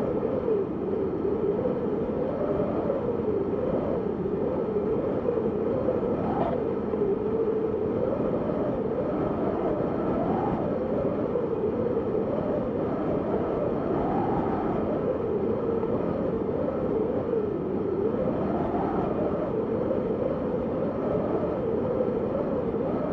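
Wind howling steadily, with a whistling tone that slowly rises and falls in pitch.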